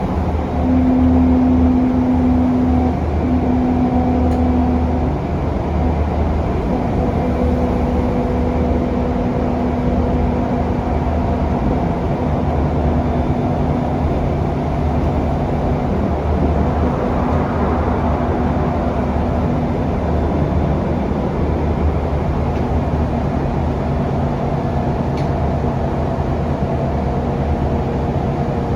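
Scania K360UA articulated bus heard from on board while driving: its Scania DC9 diesel engine and ZF automatic gearbox make a steady low drone with a held whine, under road noise. The whine's pitch shifts a few times.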